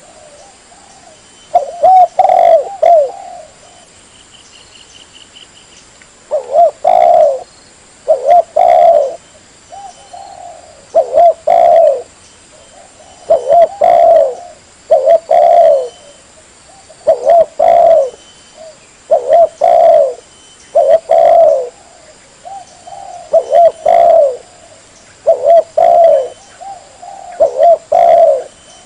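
Spotted dove (tekukur) cooing over and over in short loud phrases of a few arched coos, one phrase about every two seconds, as a hunter's lure call.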